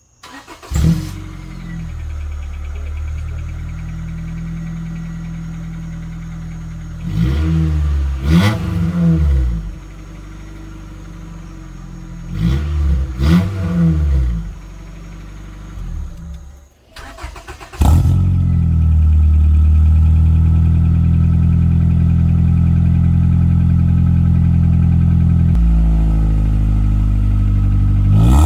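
6th-generation Honda Accord engine running through a loud aftermarket exhaust: it starts, idles and is revved twice in short blips. After a brief break it runs again much louder at a steady high idle that drops lower near the end.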